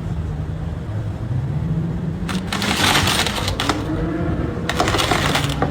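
A vehicle engine running, its pitch rising briefly, with two stretches of loud clattering, crackling noise over it.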